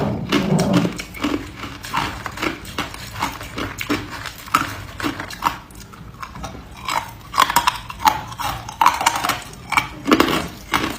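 Ice being chewed and crunched between the teeth: an irregular run of crisp cracks and crunches, several a second.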